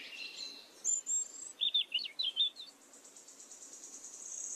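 Small birds chirping: a couple of short high whistles, then a quick run of chirps, followed by a fast, high-pitched trill that grows louder toward the end.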